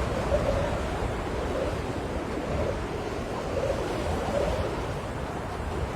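Steady rushing wind blowing over the microphone in stormy weather.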